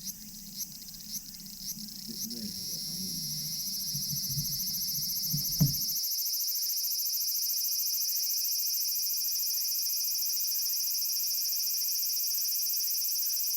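High-pitched insect chorus: separate chirps about twice a second at first, merging into a steady buzz that swells over the first few seconds and then holds. A single sharp knock sounds just before the lower background sounds cut out about six seconds in.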